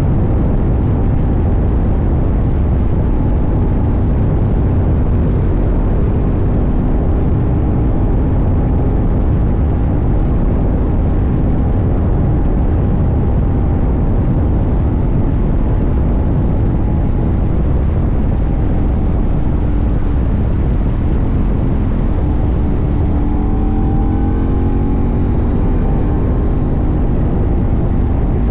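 CFMoto 800NK's 799 cc parallel-twin engine running under way, heard from the tank over a heavy low rumble of wind and road noise. Near the end the engine pitch shifts up and down as the revs change.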